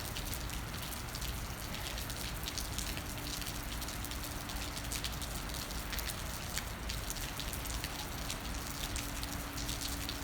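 Steady rain falling, with many small sharp drop hits on a nearby surface over a constant hiss.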